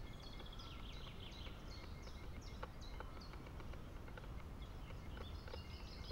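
Songbirds singing: a run of short, high, falling whistled notes, about two a second, over a low steady rumble, with a few faint clicks.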